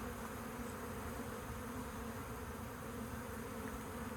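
Honeybee colony buzzing: a steady, dense hum of many bees in flight around the hive.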